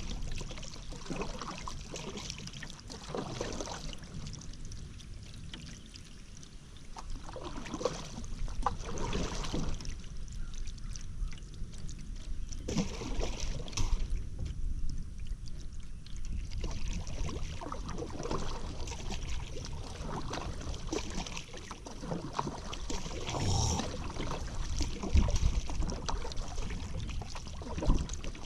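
Paddle strokes pulling through river water, a splash and swish every second or two, with water running off the blade between strokes.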